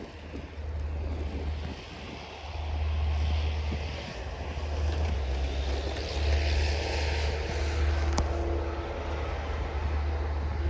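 Snowstorm wind buffeting the microphone in gusts, a low rumble that surges and eases every second or two, over a steady hiss of city traffic.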